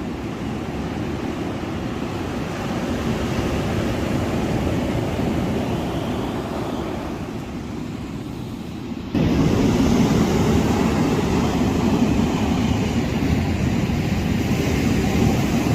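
Steady rushing seaside noise of wind and surf, mostly a low rumble, which jumps suddenly louder about nine seconds in.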